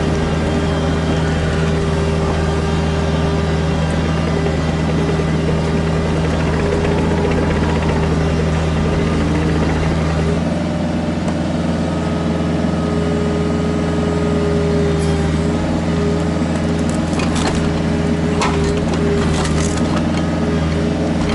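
Kubota KX121-3 mini excavator's diesel engine running steadily under work, with a few short knocks in the last few seconds.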